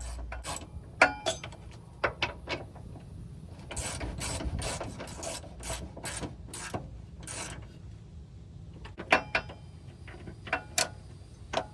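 Hand ratchet clicking in short, irregular runs with metallic clinks, tightening the steering rack mounting bolts.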